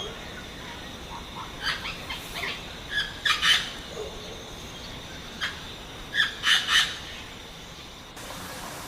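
Wild bird calls: scattered short chirps in small clusters, including a run of three near the end, over a steady background hiss.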